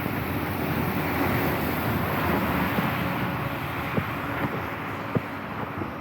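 Street noise on a wet day: a vehicle's tyres hiss on the wet road, swelling and fading as it passes, with a few sharp ticks.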